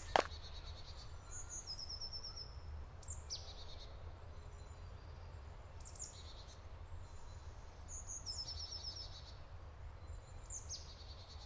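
Songbirds singing in a forest, short high phrases of quick notes, each opening with a falling note, every two to three seconds, over a faint steady low rumble. A single footstep-like click right at the start.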